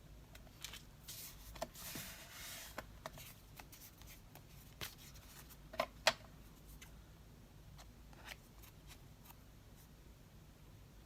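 Paper being handled and pressed down on a craft table: a rustling, rubbing stretch for a second or two, then scattered light taps and clicks, with two sharper taps about six seconds in.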